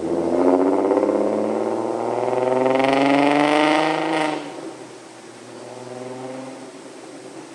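VW R32's 3.2-litre VR6 exhaust note under hard throttle, climbing steadily in pitch for about four seconds. It then falls away suddenly to a quieter, lower note that fades out.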